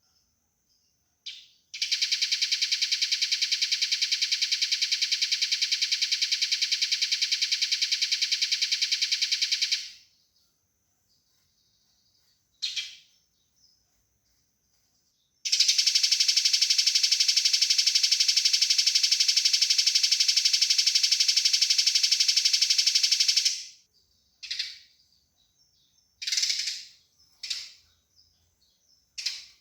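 Eurasian tree sparrow giving fighting calls: two long, fast runs of tightly packed harsh chirps, each about eight seconds, with short single chirps between and several near the end.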